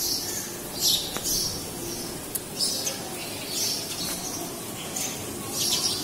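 A small bird chirping: short, high calls repeated at irregular intervals of about a second or more, which the vlogger takes for the bird calling its mate.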